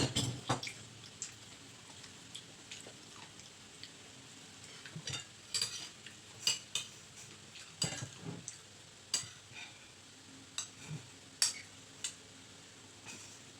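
A metal spatula stirring and scraping food in a frying pan, with irregular clinks against the pan over a faint steady sizzle.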